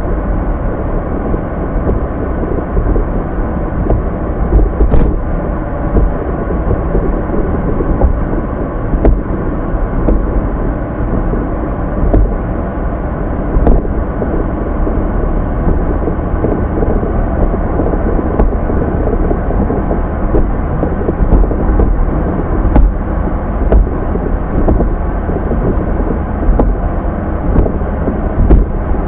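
Steady low rumble of tyre, road and engine noise inside a moving car's cabin, with an occasional faint click.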